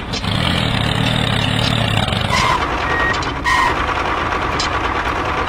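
A vehicle engine running steadily, with a low hum strongest in the first two seconds and a few short high beeps in the middle.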